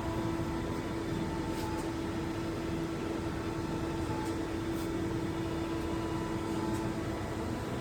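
Traub TNA300 CNC turning and milling center running with a steady hum; a steady whine comes in at the start and stops shortly before the end, as a spindle or axis drive runs and then halts.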